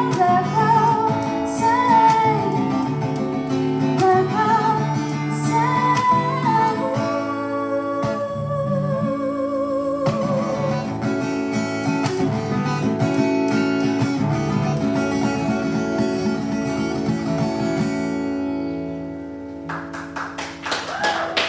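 A woman sings live over a strummed acoustic guitar, ending the song on long held notes with vibrato while the guitar rings out and fades. Near the end, the audience starts clapping.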